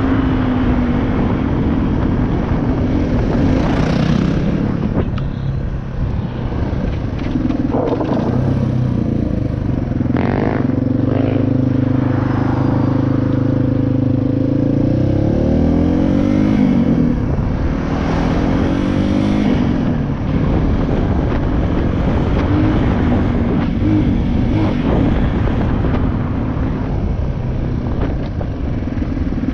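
450 dirt bike engine running as it is ridden along a trail. Its pitch rises and falls again and again with throttle and gear changes.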